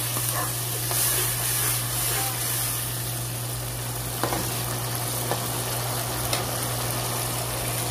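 Onion, ginger and garlic paste sizzling and frying in oil in a pan, with a spatula stirring through it and a few light clicks in the second half. A steady low hum runs underneath.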